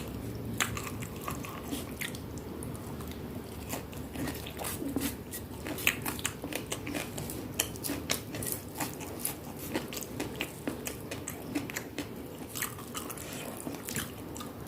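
A person chewing crunchy food close to the microphone, with many short crisp crunches.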